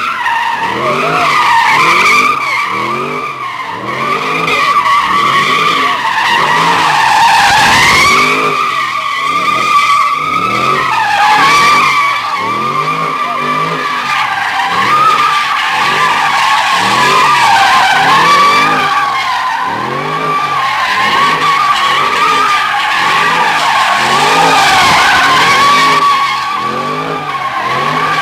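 Dodge Hellcat's supercharged V8 doing burnouts and drifting: the tyres squeal without a break while the engine revs up and down in quick repeated surges, about one a second.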